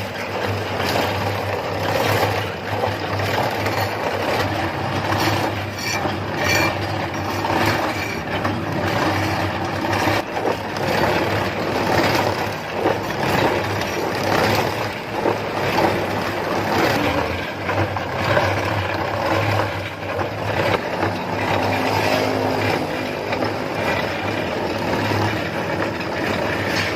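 Homemade cement mixer running: a washing-machine motor humming steadily as the plastic drum turns, with a continuous irregular rattle and knocking of cement mix tumbling inside.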